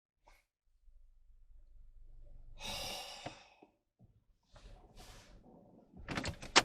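A person sighing, one long heavy exhale about three seconds in, then a shorter breath, over a faint low hum. A few sharp clicks come near the end.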